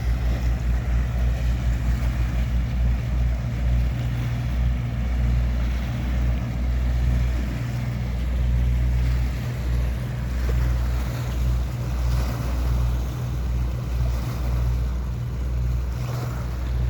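A boat engine running with a low, steady hum that pulses rhythmically at first, over wind and water noise.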